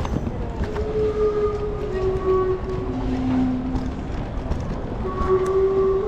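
Steam whistles of the Gastown steam clock sounding a slow chime tune, one held note after another, stepping down in pitch and then back up, over steady street noise.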